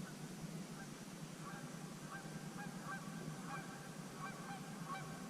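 Geese honking, faint, a run of short calls repeating a few times a second from about a second and a half in, over a steady low hum.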